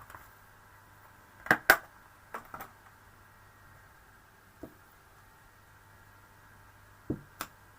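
Stamping on a craft table: a stamp inked on an ink pad and pressed onto card, giving two sharp taps about a second and a half in, a few fainter knocks after, and two more taps near the end, over a faint steady hum.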